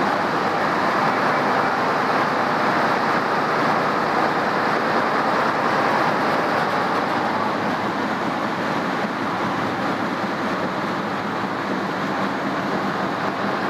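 Embroidery machines running with a loud, steady, unbroken mechanical noise.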